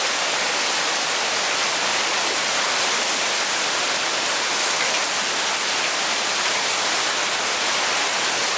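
Steady, heavy rain falling: a dense, even hiss of a summer rain shower coming down hard.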